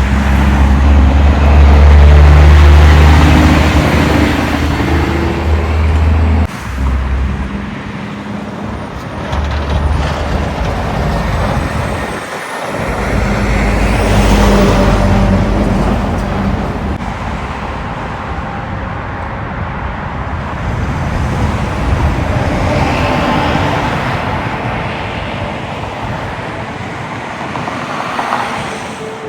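Semi-trucks passing on a road. A heavy diesel engine drones loud and low in the first few seconds and cuts off abruptly, then several more trucks and cars go by, each a swell of engine and tyre noise.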